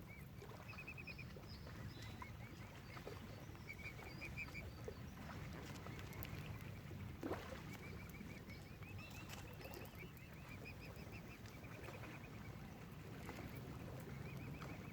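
Mute swan cygnet peeping: runs of short, high chirps repeated in quick series, over a steady low rumble.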